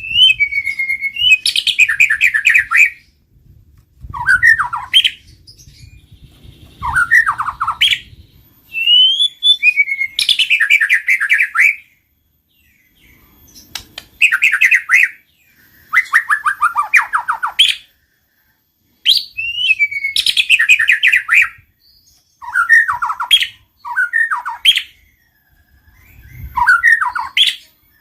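White-rumped shama singing: loud phrases of quick repeated notes and whistled sweeps, each a second or two long, separated by short pauses.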